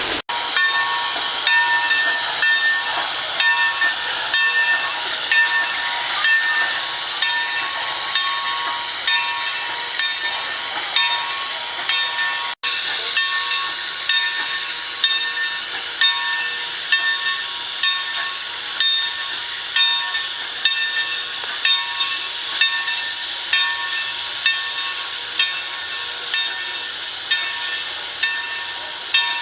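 Steam locomotive on the move: a steady, loud steam hiss with a regular repeating beat.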